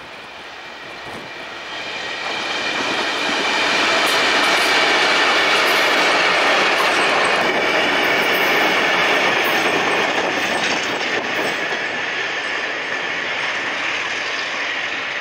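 Freight train hauled by two diesel-electric locomotives (R20 and R150 class) passing close by: it grows louder over the first four seconds, stays loud for a few seconds, then slowly eases off as the wagons roll past. A steady high ring runs through it, with sharp clicks of wheels over rail joints in the middle.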